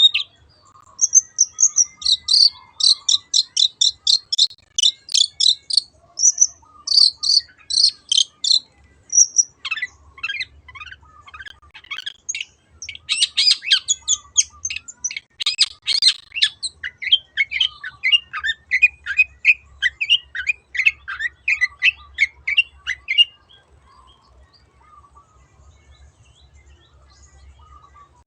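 Long-tailed shrike (cendet) singing long, fast runs of short, repeated high notes, with a short break about nine seconds in. The song stops about three-quarters of the way through.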